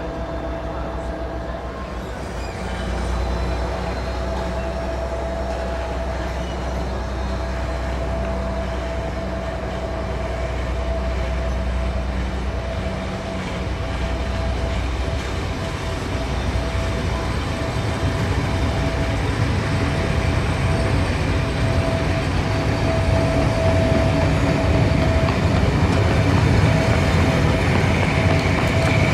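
Northern Belle Pullman coaches rolling slowly along the rails as the train pulls away, with a steady whine and a low rumble that grows louder in the second half.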